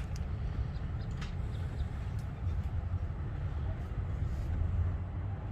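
Steady low mechanical rumble of running machinery, with a few faint clicks near the start and about a second in.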